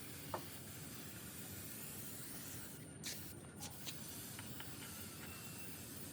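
Faint steady hiss, broken by a few light clicks and taps.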